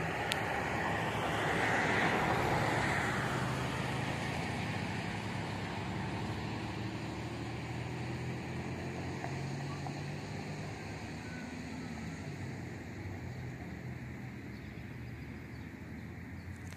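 Road traffic noise: a passing vehicle swells loudest about two seconds in, then a low engine hum that slowly fades.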